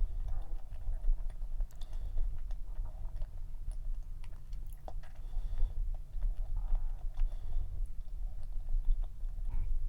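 Close-miked chewing of a dense, fudgy cream cheese cup cookie, with scattered small mouth clicks over a low rumble.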